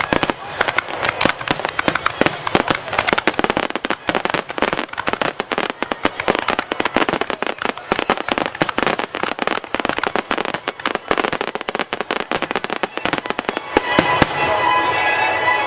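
Aerial fireworks going off close by in a dense, rapid barrage of bangs and crackling. About fourteen seconds in the bangs stop and steady music takes over.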